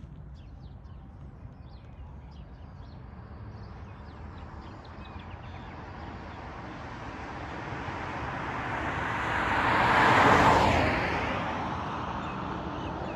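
A road vehicle approaching and passing close by: tyre and engine noise builds steadily, is loudest about ten seconds in, then fades as it goes away. No siren is heard.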